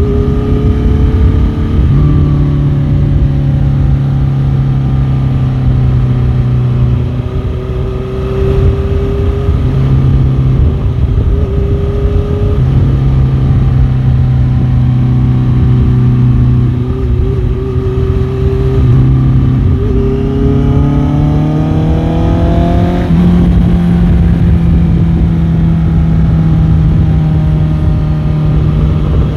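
Motorcycle engine running on the move, its pitch stepping up and down with throttle and gear changes, then climbing steadily for a few seconds about two-thirds of the way in before settling at a higher note.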